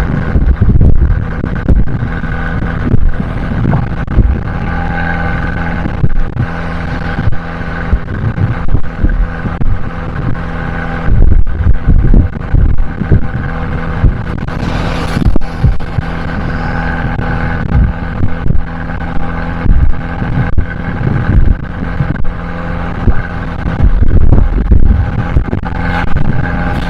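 Abarth 595C's 1.4-litre turbocharged four-cylinder running through an Akrapovič exhaust at fairly steady revs while the car is driven, with frequent irregular low thumps and rumbles.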